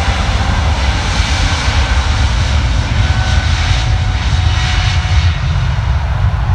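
Jet airliner's engines running loud and steady, a deep rumble with a hiss and faint high whining tones over it.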